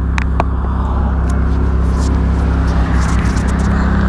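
Ferrari F430's V8 engine idling steadily, with a few sharp clicks from fingers handling the camera.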